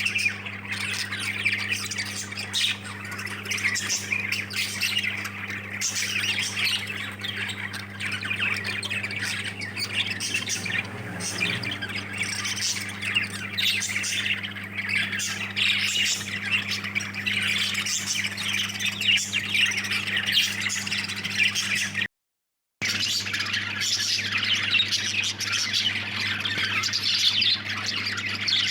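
A flock of budgerigars chattering and squawking continuously in an aviary, over a steady low hum. The sound drops out briefly about three-quarters of the way through.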